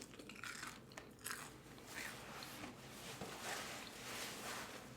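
A person chewing food close to the microphone, with soft, irregular crunches.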